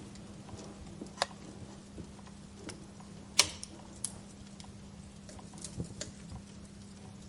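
Wood fire crackling in a fireplace: irregular sharp pops and snaps over a soft steady hiss, the loudest pop about three and a half seconds in, with a faint steady low hum beneath.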